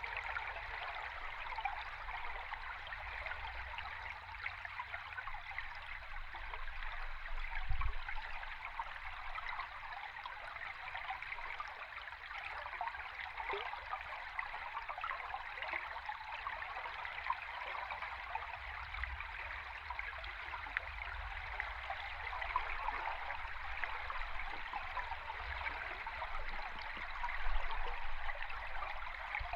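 River stream recorded underwater: a steady, crackling rush of moving water over a low rumble, with a brief low thump about eight seconds in.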